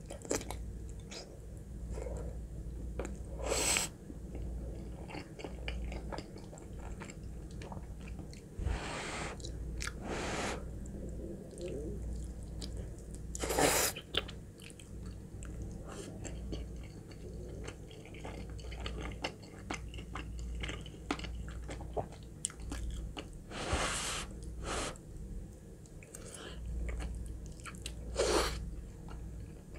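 Close-miked chewing of a mouthful of soft, creamy chicken alfredo pasta, with about five louder, brief noisy sounds spread through.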